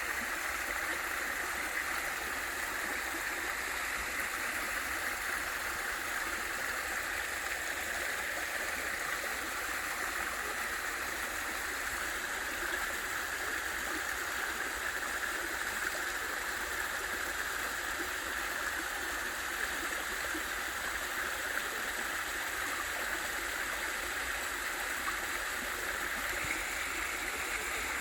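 Small waterfall in a mountain stream, water falling and rushing in a steady, even wash.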